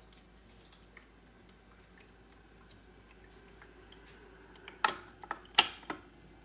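A quick cluster of four or five sharp clicks and knocks about five seconds in, over a faint steady hum and scattered light ticks.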